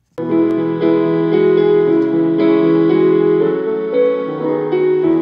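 A keyboard starts suddenly, a fraction of a second in, playing sustained chords that change every second or so: the instrumental introduction to a hymn, before the singing enters.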